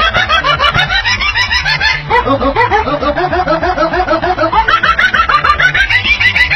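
Rapid, high chattering calls in quick runs that slide down in pitch, over a steady low pulsing beat.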